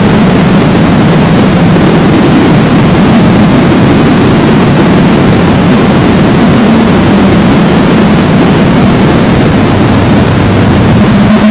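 An engine running steadily under loud rushing noise, holding one even pitch throughout.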